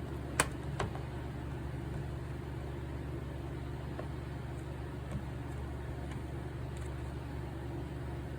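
Steady low mechanical hum, with two sharp clicks less than a second in and a faint tick about five seconds in.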